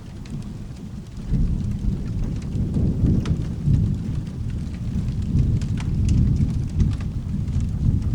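Thunder rumbling over steady rain. The deep rolling rumble swells about a second in and keeps going, with scattered small sharp crackles on top.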